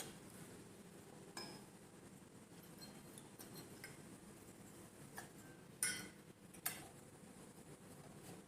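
Scattered light clinks and clicks of small hard parts being handled, the two loudest about a second apart near the end.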